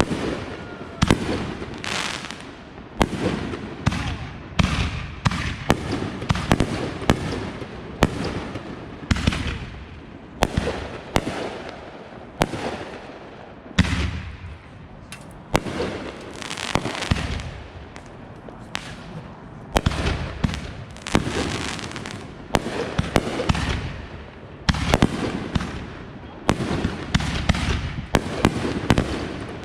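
Consumer fireworks going off in quick succession: sharp bangs and booms, one every second or so, some trailed by crackling.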